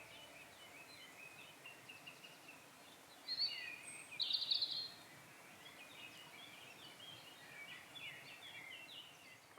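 Woodland birdsong: several small birds chirping in quick, short phrases over a faint steady background hiss, with two louder calls about a third and halfway in.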